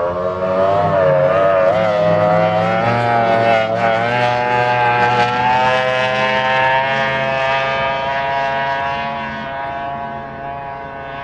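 Drag boat engine at full throttle just after launch: a high, steady, multi-pitched engine note with a lower engine tone underneath, fading slowly over the last few seconds as the boat gets farther away.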